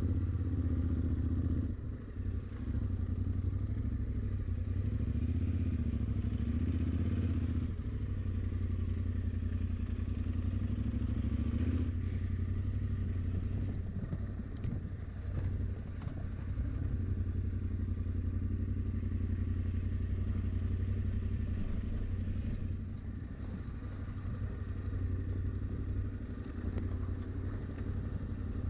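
Yamaha Ténéré 700's parallel-twin engine running at low speed on a dirt trail, its note rising and falling with the throttle, with scattered clicks and clatter.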